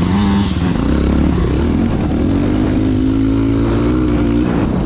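Dirt bike engine running and revving, its pitch climbing through the middle and falling away near the end.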